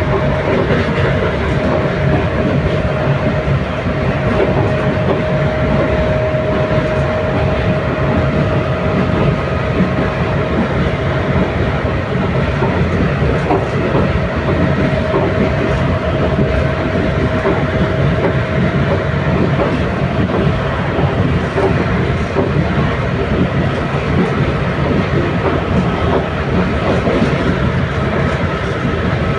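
Passenger train carriage running along the track: a steady rumble with the wheels clicking over the rail joints, and a faint steady whine.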